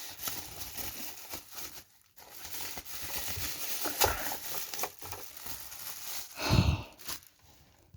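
Rustling and crinkling of packaging as a boxed model car is handled and unwrapped, with small knocks and clicks; it pauses briefly about two seconds in, and a short louder low sound comes about six and a half seconds in.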